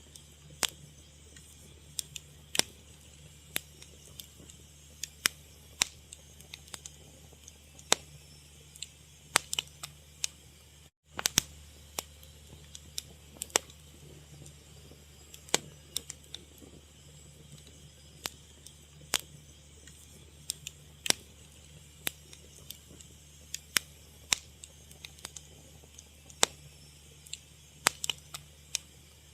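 Fire crackling, with sharp irregular pops one to three times a second over a steady low rumble and hiss. The sound cuts out for an instant about eleven seconds in.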